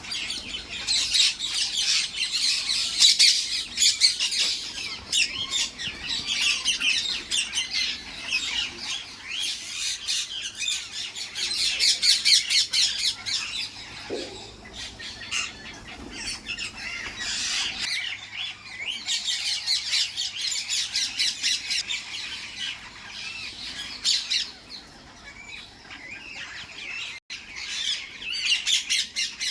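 A flock of parrots squawking and chattering, many calls overlapping, swelling louder and easing off in waves.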